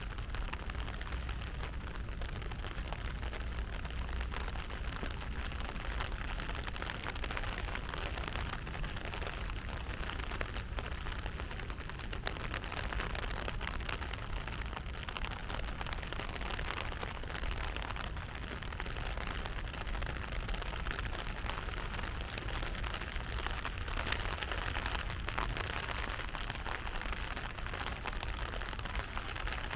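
Heavy rain falling steadily: an even hiss with a dense patter of drops.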